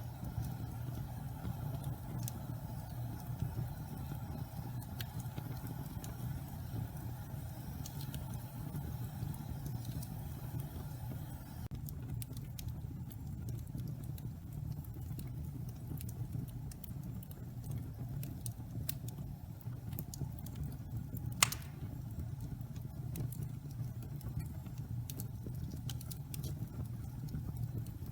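Pine-log fire burning in a fireplace: a steady low rumble of flames with scattered crackles from damp wood, and one sharp, loud pop about three quarters of the way through.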